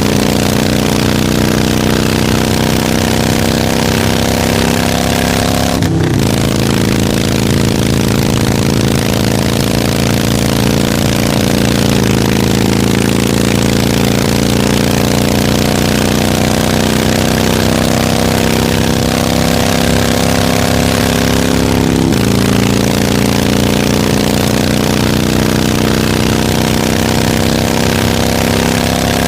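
Harley-Davidson motorcycle's V-twin engine running under way, its pitch slowly climbing and then dropping suddenly twice, about six seconds in and again past twenty seconds.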